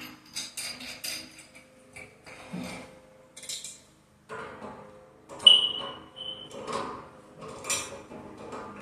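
Scattered metal clinks and knocks from work on the steam radiator's pipe union as it is tightened. The loudest is a sharp clink about five and a half seconds in that rings briefly.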